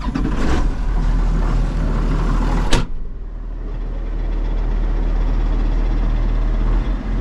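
John Deere 7210 tractor's six-cylinder diesel running steadily. A single sharp thunk about three seconds in, after which the sound becomes duller with less hiss.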